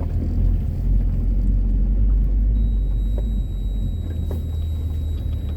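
Car engine running with a steady low rumble that eases slightly about three and a half seconds in.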